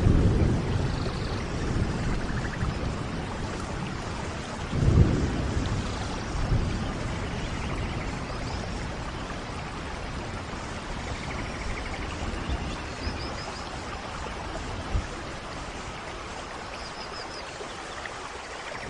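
Steady rain with low rumbles of thunder, strongest at the start and again about five seconds in, then easing to the hiss of the rain. A few faint high chirps come near the end.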